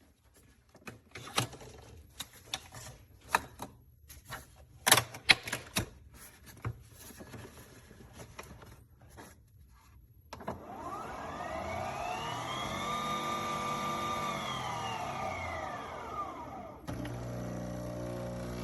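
Nespresso Vertuo Pop+ coffee machine: a series of clicks and knocks as it is handled, then its motor whines up in pitch and winds back down over about six seconds. A steady hum starts near the end.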